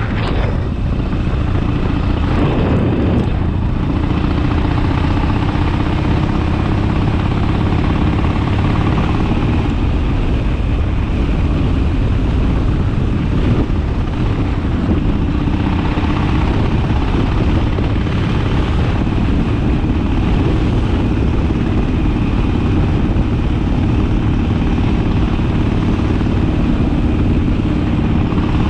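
Harley-Davidson Sportster V-twin engine running steadily under way, its pitch shifting a little with the throttle.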